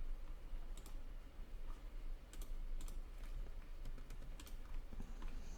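Sparse, scattered clicks of a computer keyboard and mouse, over a low steady hum, with a faint high whine starting near the end.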